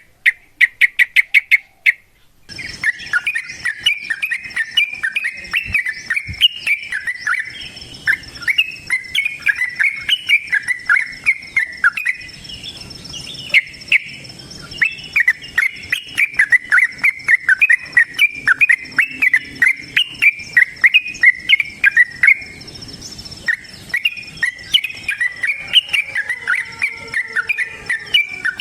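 Yellow-vented bulbul (trucukan) singing a long, fast chattering song of rapid bubbly notes, after a short opening run of quick sharp chips. A steady high insect drone runs behind the song.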